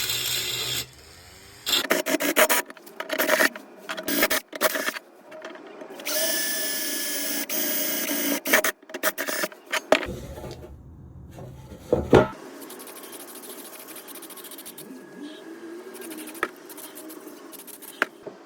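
Workshop tool sounds: a power drill runs in short spells among knocks, clatter and scraping. The last few seconds are quieter, with a few light clicks.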